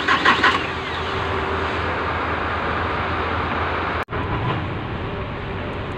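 Starter motor cranking a hard-starting Ford diesel engine, a rhythmic chug of about six beats a second that stops about half a second in with a falling whine, followed by a steady mechanical noise. The hard start is put down to a failed glow plug. The sound briefly drops out about four seconds in.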